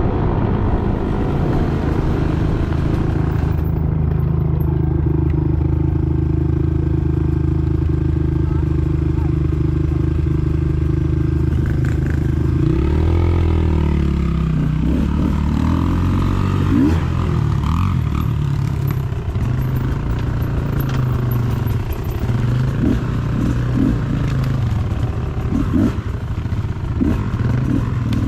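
Dirt bike engine running under way, holding a steady note at first, then changing pitch with the throttle about halfway through and going uneven, with short rattles and knocks.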